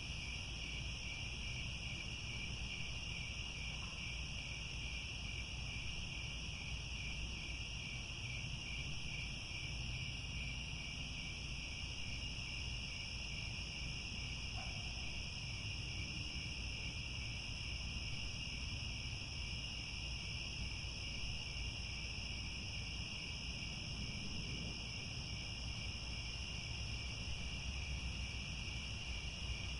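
A dense chorus of crickets trilling steadily in two continuous high-pitched bands, with a faint low rumble beneath.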